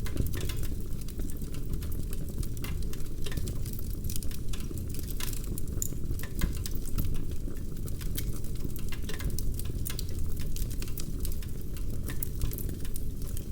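Fireplace fire crackling, with frequent sharp pops and snaps over a low steady rumble of the flames.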